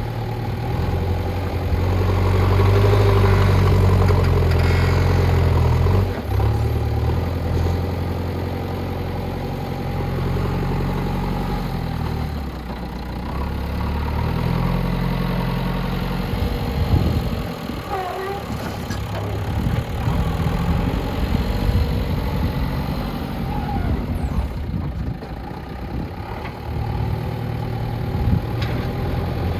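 Diesel engine of a JCB backhoe loader running, its note rising and falling several times as it works under changing load, with a few short knocks partway through.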